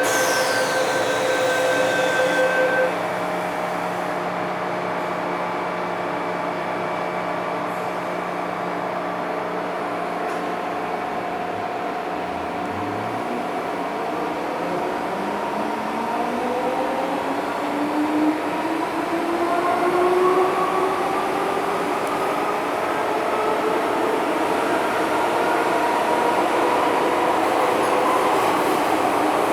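MTR M-Train heard from inside the car. A high tone falls away over the first few seconds, then the train runs quietly. From about halfway, the traction motors' whine climbs steadily in pitch, several tones rising together as the train picks up speed.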